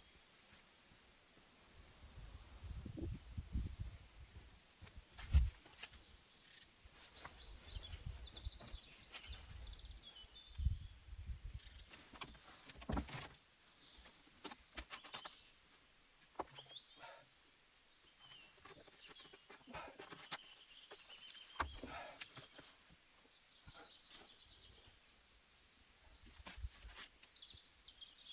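Small birds chirping here and there, with scattered sharp knocks and clicks and a few low thuds, the loudest knock about five seconds in.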